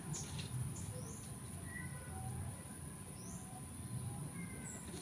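Small birds giving scattered short chirps, several times, over a steady low rumble and a thin continuous high-pitched whine.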